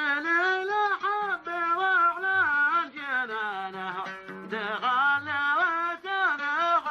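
Male voice singing a 'baleh', an Arabic folk song, in long ornamented phrases with wavering, sliding pitch, over a faint steady low drone.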